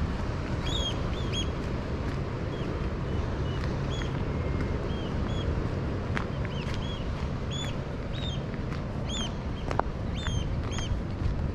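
Several birds giving short, high, repeated calls, many in quick succession, over a steady low rumble.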